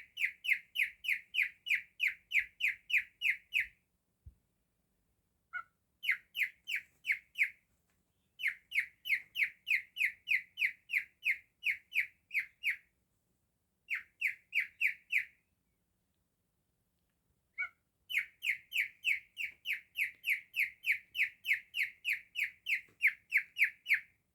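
Pet cockatiel whistling a canary-like song: bouts of the same clear, high note repeated about three times a second, broken by short pauses, with a brief rising note before some bouts.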